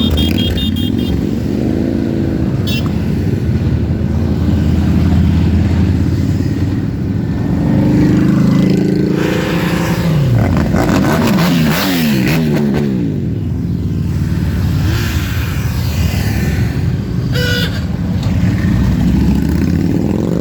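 Many motorcycles riding past in a dense stream, their engines revving up and down over one another. A brief high-pitched tone sounds near the end.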